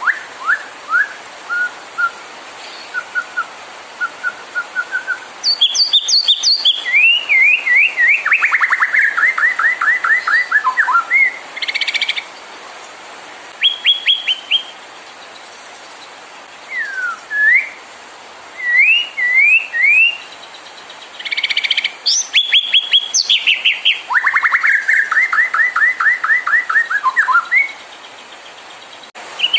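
White-rumped shama singing a string of clear whistled phrases, with short bursts of quick slurred notes in between. Twice the song runs into a long series of rapid notes that step down in pitch, and the same phrase returns as a repeat.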